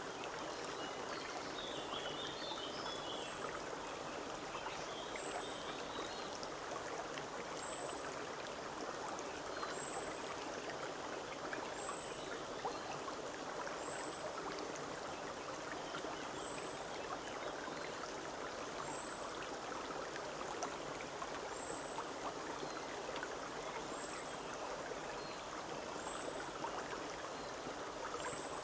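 Forest stream babbling steadily over stones. A bird repeats a short, very high thin call every second and a half to two seconds, and another bird chirps briefly in the first few seconds.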